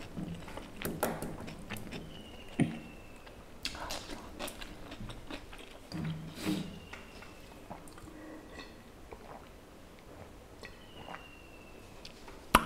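Close-miked eating by hand: chewing, lip smacks and wet mouth clicks as curry and rice are eaten off the fingers, with scattered sharp clicks spaced irregularly.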